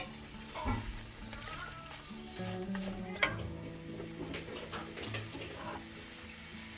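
Food sizzling in a frying pan as it is stirred, with sharp clicks of a utensil against the pan, the loudest at the very start and another about three seconds in. Background music plays throughout.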